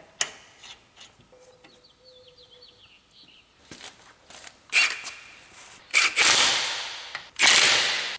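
Impact wrench running lug nuts down on a wheel in four bursts of about a second each, starting about five seconds in, after a few faint clicks.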